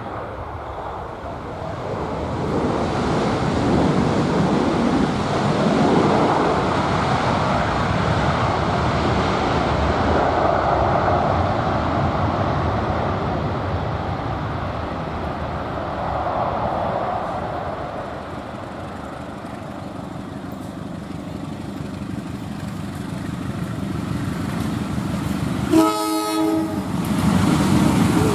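A train rolling past, a steady rumble of wheels on the track that swells and then slowly eases, followed by a short blast of the horn about two seconds before the end and another horn note starting just at the end.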